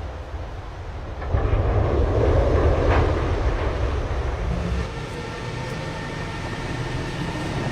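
Heavy low rumbling of a boat sliding down toward the water at its launch. It starts about a second and a half in and eases a little after about five seconds.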